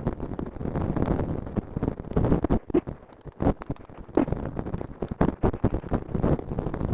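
Wind buffeting the microphone over a run of short knocks and rattles from a mountain bike riding over rough trail, easing off briefly about halfway through.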